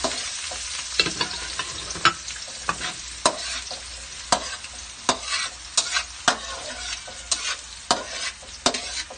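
Chopped garlic and onion sizzling in hot cooking oil in a metal wok, with a steady hiss. A metal slotted spatula stirs the pan, scraping and clinking against the wok about once a second.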